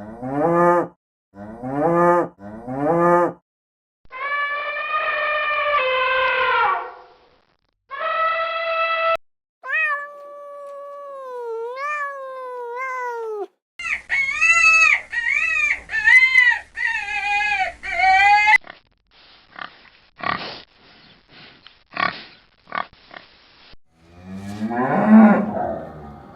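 A sequence of different farm animal calls, one after another: three short calls, two longer held calls, a sliding call and a run of quick calls, then a patter of clicks and one last call near the end.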